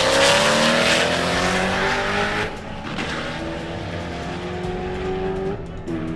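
Drag-racing cars accelerating hard down the quarter-mile strip. The engine note climbs through the first two and a half seconds, then drops back and goes quieter as the cars pull away. The pitch falls sharply again around five and a half seconds in, at what sounds like a gear change.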